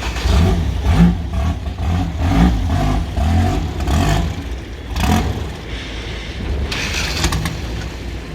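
River boat engine running, its pitch rising and falling as it revs through the first half, then settling to a steadier run.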